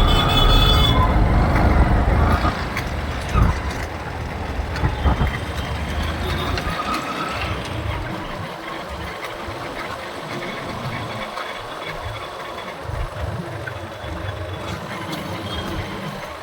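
Road noise heard from a moving motorbike in city traffic: engine rumble and rushing air, loudest for the first couple of seconds and then easing to a steadier, lower level.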